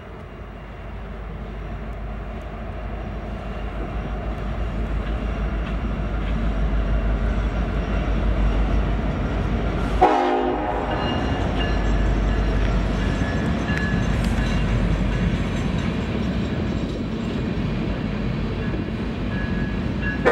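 Freight train led by an EMD SD70ACe diesel locomotive approaching and passing, its deep rumble growing louder over the first half. Then the train's tank cars roll by on the rails. The sound breaks off abruptly about halfway through.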